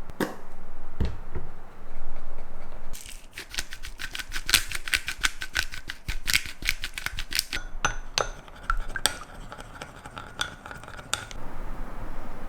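Kitchen utensils knocking and clinking on glass and dishes: a few separate knocks in the first second or so, then a quick run of light clicks, about four or five a second, from about three seconds in until near the end.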